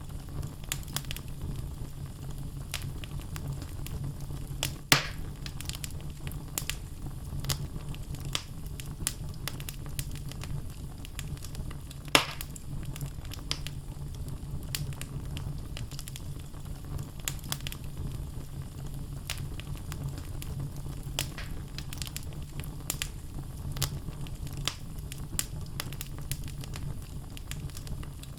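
Wood logs burning in a fireplace, crackling with many small snaps over a steady low rumble. Two louder pops come about five and twelve seconds in.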